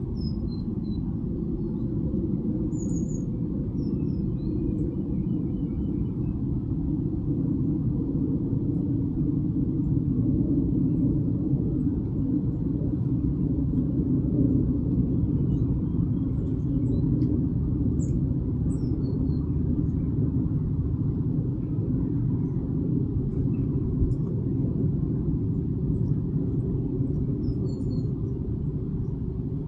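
Steady low rumble of outdoor background noise, with faint, short high-pitched calls of small garden birds scattered through it.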